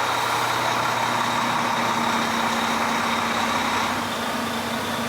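Heavy truck's diesel engine idling steadily with a constant low hum, easing off slightly about four seconds in.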